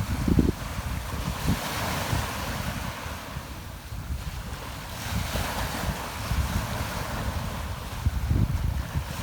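Rough sea surf breaking and washing in, swelling and easing every few seconds, with gusts of wind buffeting the microphone as a low rumble.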